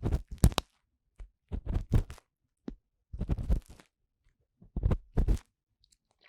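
Ear-cleaning tool scraping and rustling inside the silicone ear of a 3Dio binaural microphone, in four close, crackly strokes about a second and a half apart.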